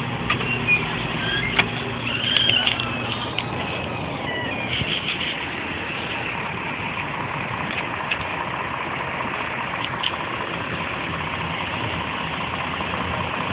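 Vehicle engine idling with street traffic noise: a steady low hum for the first few seconds that then sinks into a general rumble.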